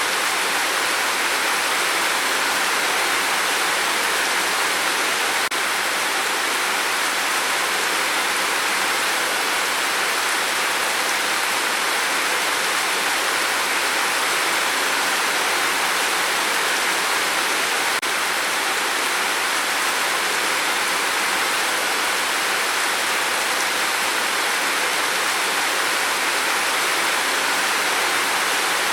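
Steady rain falling on a tin roof: a dense, even hiss with no single drops standing out.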